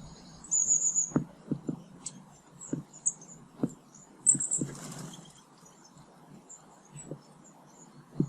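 Small garden birds calling with short, high chirps, including a quick trill about half a second in and a louder burst of chirps about four and a half seconds in. Irregular soft taps and knocks sound among the calls, about a dozen in all.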